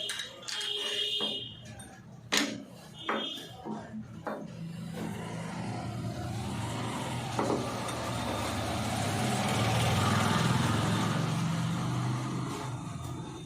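Metal engine parts and tools clinking and knocking, with short ringing tones, during engine assembly; then a motor vehicle's engine runs, swelling louder and fading away, as of a vehicle passing by.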